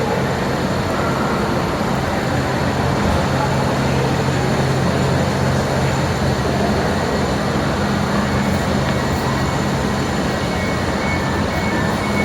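A train running at a platform: a steady low hum over even rumbling noise, with a faint high tone near the end.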